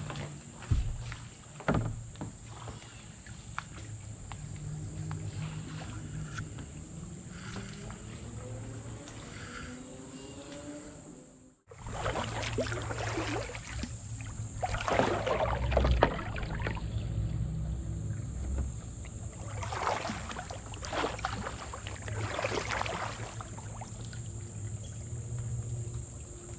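Kayak paddle strokes swishing and splashing in the water, several separate strokes about a second each in the second half. A steady high insect chirring runs underneath throughout. Two sharp knocks come about a second in, and the sound cuts out abruptly for an instant partway through.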